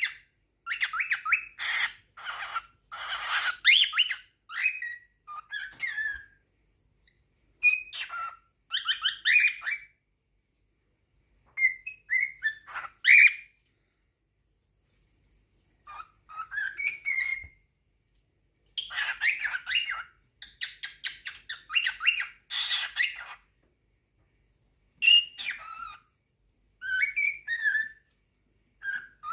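Cockatiels calling in bouts of fast, buzzy chatter mixed with short gliding whistles, with pauses of a second or two between bouts: a male cockatiel's courtship singing.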